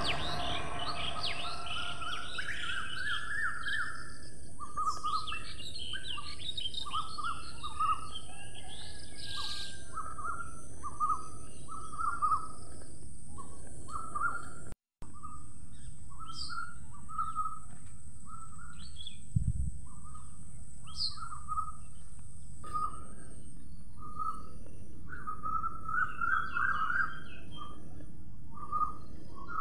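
Songbirds chirping in a long run of short repeated calls over a steady high hiss. The sound drops out for an instant about halfway through.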